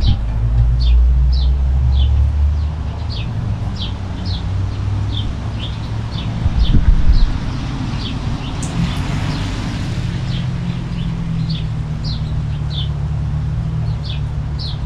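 Finches chirping: short, high, falling chirps about two a second, over a steady low rumble of traffic, with a vehicle passing around the middle.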